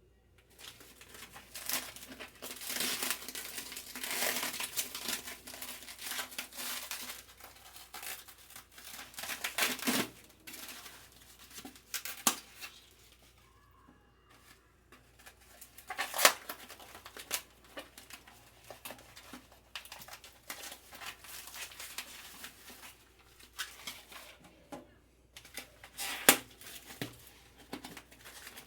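Plastic crinkling and rustling with irregular sharp clicks and knocks: plastic packaging and acrylic containers being handled.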